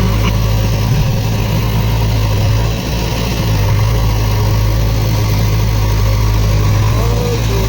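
A heavy diesel engine running steadily at an even speed, with a strong low hum.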